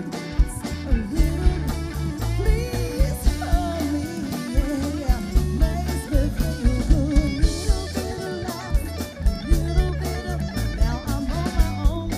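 Live band playing an instrumental stretch of a rock song: a guitar lead line over bass and drums, with regular drum hits.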